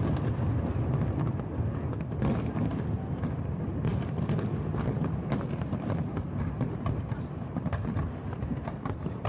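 Fireworks going off in a continuous display: a rapid, irregular stream of bangs and crackles over a steady low rumble.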